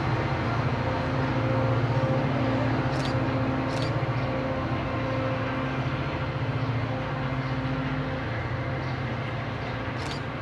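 Diesel locomotive engine running steadily, a low hum with a few steady tones over it, slowly fading toward the end. A few short, high hissing squeaks come about three and four seconds in and again near the end.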